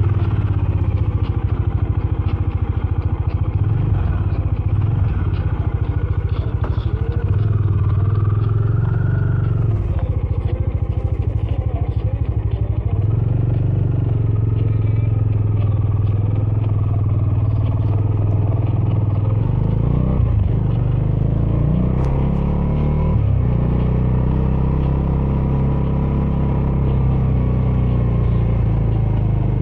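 Bajaj Dominar 400's single-cylinder engine running through its stock exhaust under way. The pitch steps up and down several times with throttle and gear changes.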